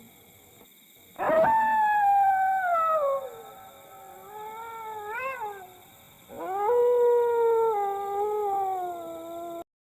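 Dog howling: a long howl beginning about a second in that slides slowly down in pitch, a short rising-and-falling note about five seconds in, then a second long howl that cuts off abruptly near the end.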